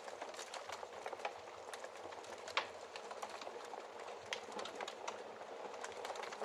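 Wood fire in a fireplace crackling: a steady run of small sharp pops and snaps over a soft hiss, with one louder pop about two and a half seconds in.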